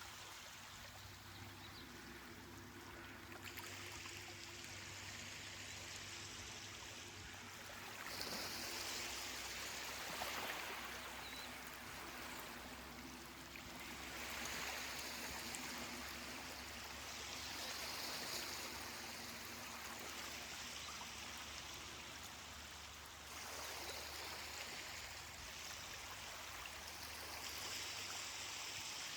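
Small ocean waves washing up a beach, a soft steady hiss of water that swells every few seconds as each wave breaks and runs up the sand.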